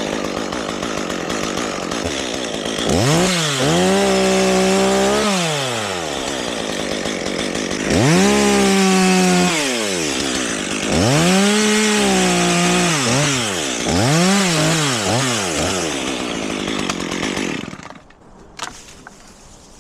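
Chainsaw bucking a broken maple limb into chunks, revving up to full speed and dropping back four times. It stops abruptly near the end.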